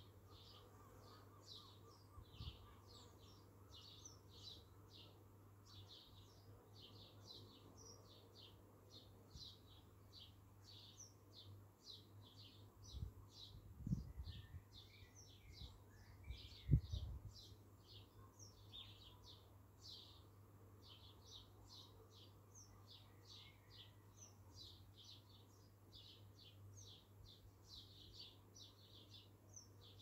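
Small birds chirping, faint and high-pitched, several quick chirps a second throughout, with a few lower chirps near the middle. A few dull thumps sound around the middle, the loudest a little past halfway, over a steady low hum.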